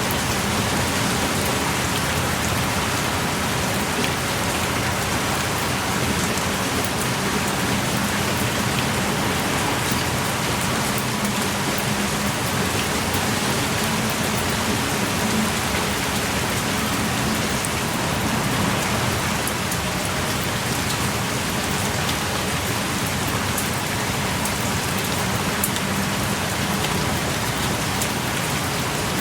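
Heavy, steady rain pouring, with scattered individual drops pattering close by.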